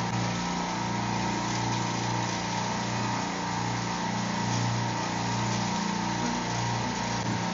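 Running refrigeration rack compressors: a steady low machine hum with a steady higher whine above it, the low hum swelling and easing slightly.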